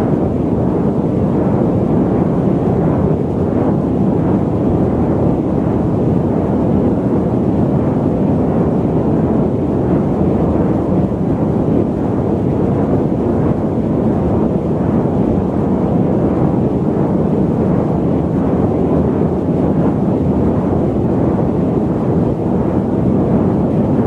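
Loud, steady static noise: a dense, dull rumbling hiss with most of its weight in the low and middle range, unchanging throughout.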